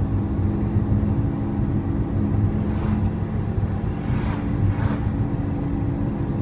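Lamborghini Aventador LP700-4's V12 engine running steadily at cruise, heard from inside the cabin.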